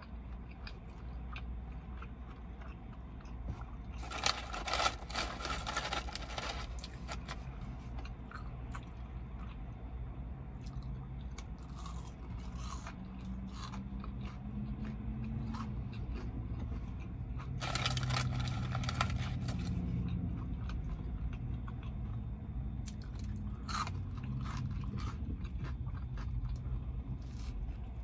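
Close-miked chewing and biting of a sourdough burger, with two louder crunchy stretches, about four seconds in and again about eighteen seconds in, and scattered small clicks of mouth sounds. A steady low hum runs underneath.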